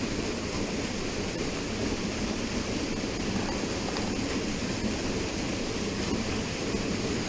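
Steady rushing of water at a small river waterfall, an even noise with no breaks.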